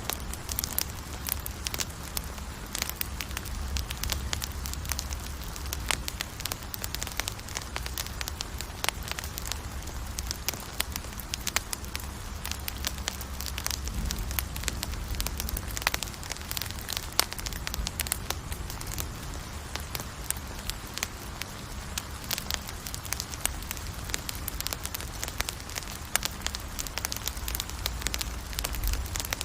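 Wood campfire burning, with dense irregular crackles and pops over a steady low rumble.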